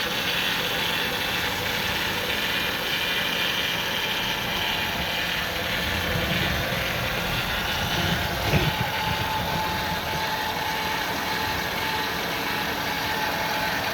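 Ford 3.8-litre V6 in a 2000 Windstar idling at about 900 rpm with a rough idle: a heavy shake with no misfires or vacuum leaks found to explain it. There is a brief knock about eight and a half seconds in.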